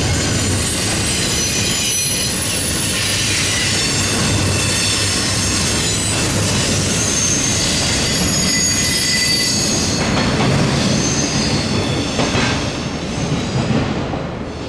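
Double-stack intermodal container well cars of a freight train rolling past on a curve, their steel wheels squealing against the rails over a steady rumble and clatter. The sound grows quieter and uneven near the end as the last cars pass and the train pulls away.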